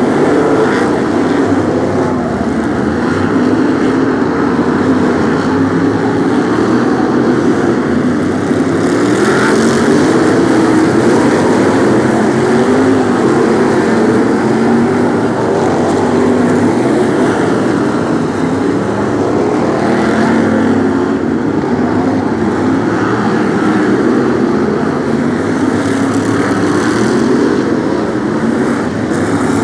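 A pack of BriSCA F1 stock cars' V8 engines racing, a dense, continuous engine noise whose pitch wavers up and down as the cars rev and pass.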